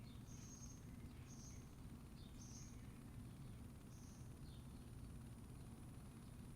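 Faint backyard ambience: a steady low rumble of distant background noise with small birds chirping in short high calls, roughly one a second, and a thin steady high-pitched tone throughout.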